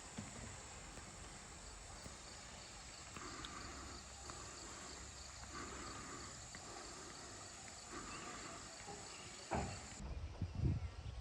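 Insects chirring steadily in a high, faint, fast-pulsing drone. Near the end there is a thump, the insect sound stops abruptly, and low rumbling bumps follow.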